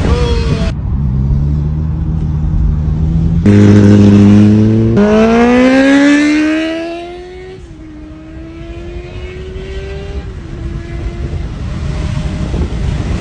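Kawasaki ZX-10R sport motorcycle accelerating hard through the gears. It is loudest about four seconds in, the engine note climbing steeply, then it fades as it pulls away, the pitch dropping back and climbing again at two later gear changes.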